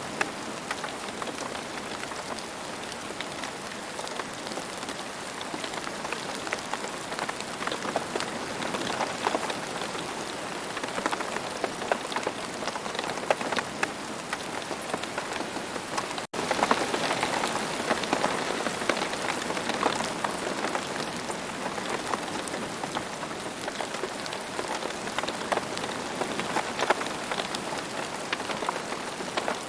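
Steady rain falling on the ground: an even hiss filled with countless small drop ticks. About halfway through, the sound cuts out for a split second.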